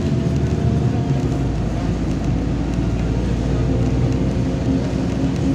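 Interior of a MAZ-203 low-floor city bus on the move: steady engine and drivetrain rumble with road noise and a faint whine rising slightly in pitch.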